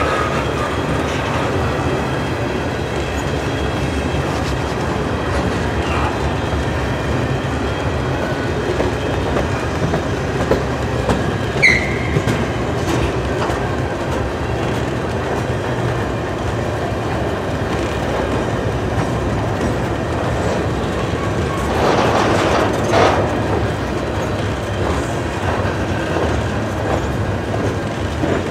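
Freight train of covered hopper cars rolling past, a steady rumble with wheels clacking over the rail joints. A short, high wheel squeal comes about twelve seconds in, and a louder clatter a little past twenty seconds.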